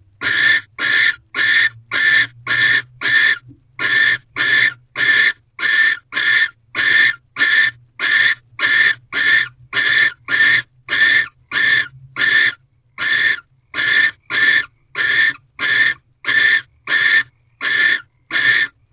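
Barn owl in a nest box giving a long series of short rasping hisses, about two a second, with a short break twice.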